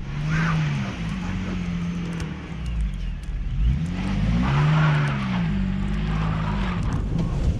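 Delivery van engine revving up and down in a snowstorm, with wheels spinning on snow as the van struggles for grip on an uphill. It swells to a higher pitch and drops back in the middle.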